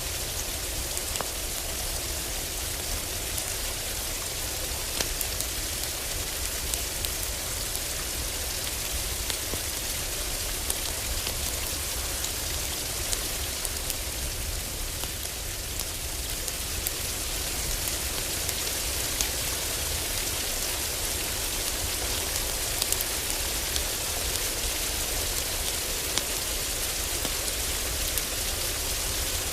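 Steady heavy rain drumming on a cabin roof, with scattered sharp crackles and pops from a wood fire in a fireplace.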